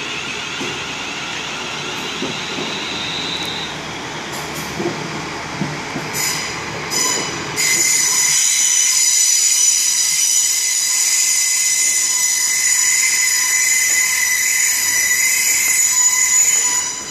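A train moving through the station at low speed, with a rising whine in the first few seconds. From about eight seconds in, a loud, steady, high-pitched metallic squeal of wheels on rail.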